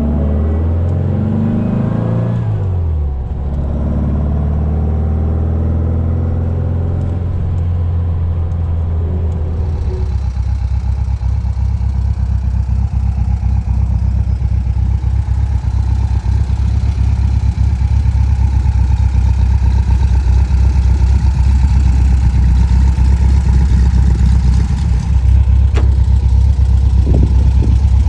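1958 Volkswagen Beetle's air-cooled flat-four engine running. It revs up and down in the first few seconds, then settles into a steady run with a fast, even beat that grows slowly louder. A couple of sharp clicks near the end from the chrome push-button door handle.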